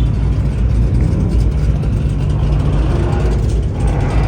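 Car engine running steadily with a low-pitched hum, held at an even level.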